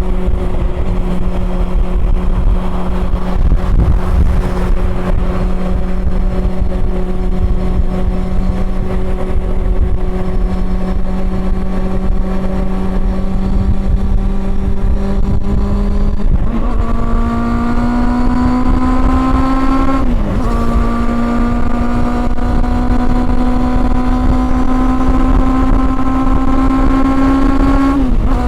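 Honda CB400 Super Four's inline-four engine under way, holding steady revs with a slow climb in pitch. About two-thirds of the way through the revs jump up to a harsher, brighter note. They dip for a moment, climb again, and ease slightly near the end. A low rumble of wind and road noise lies underneath.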